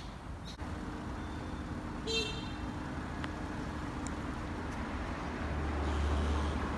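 City street traffic: cars passing with a steady low rumble and hum, the rumble swelling near the end as a vehicle goes by, and a brief high-pitched toot about two seconds in.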